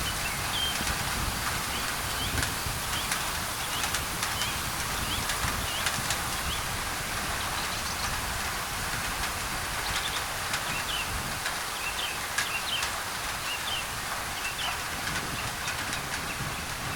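Steady rain on a thin tin roof, with sharp ticks of single drops, under a steady white-noise hiss. Short bird chirps repeat throughout.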